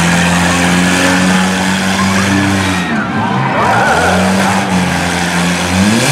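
Engines of front-wheel-drive demolition derby cars running at high revs, the pitch dipping about three seconds in and climbing again near the end.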